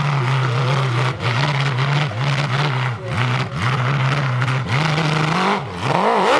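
Racing motorcycle engine at high revs, its pitch held level, then dropping sharply and climbing back about five times as it changes gear. The pitch rises again near the end.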